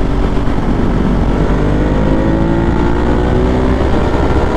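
Ducati 1098's L-twin engine accelerating hard, its pitch climbing steadily through a gear, under heavy wind rush on the rider's microphone.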